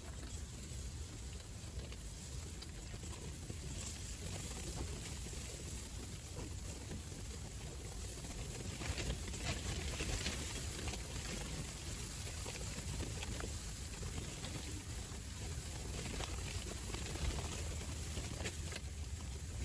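Strong wind buffeting the microphone: a steady low rumble with a high hiss over it, and a few light ticks around the middle and near the end.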